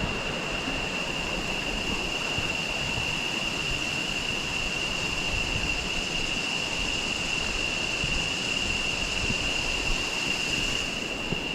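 Steady rush of flowing river water, with a continuous high-pitched tone over it.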